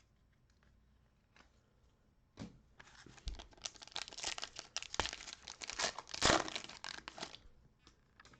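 A 2021 Donruss football card pack's plastic wrapper being torn open and crinkled. It starts about two seconds in and goes on for about five seconds of crackling and tearing.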